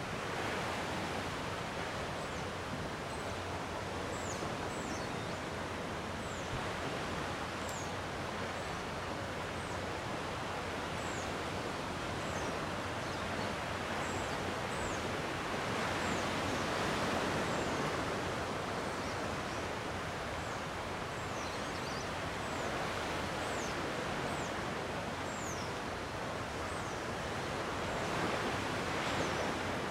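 Gentle sea waves washing on the shore in a steady hiss, with two swells where a wave comes in, about halfway through and near the end. Many brief, thin, high chirps sound over it.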